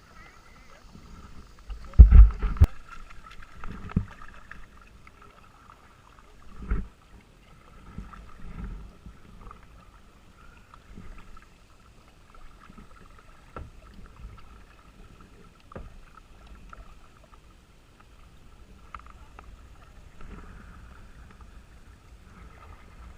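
Kayak moving on a river: irregular paddle dips and water sloshing against the boat, with a few dull low thumps, the loudest about two seconds in.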